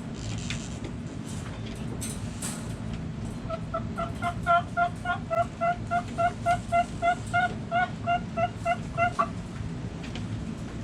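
A chicken calling a quick, even run of short pitched clucks, about three a second, starting a few seconds in and stopping abruptly some six seconds later. A steady low rumble runs underneath.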